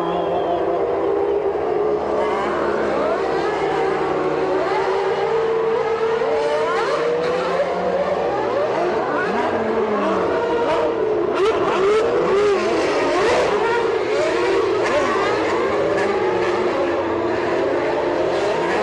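Several 1989 Formula One cars running together, their 3.5-litre naturally aspirated engines revving up and down through gear changes. Many engine notes overlap and rise and fall in pitch throughout, with one steadier note underneath.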